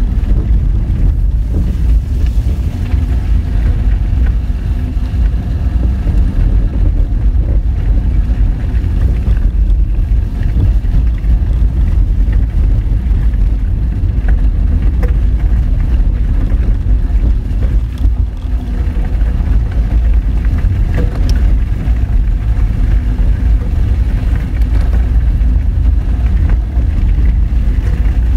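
Honda Fit hatchback driving over a rough gravel forest road: a steady low rumble of tyres and engine, with a few scattered clicks of stones.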